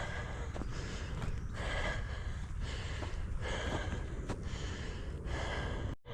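Heavy breathing of a tired hiker walking, one breath about every second.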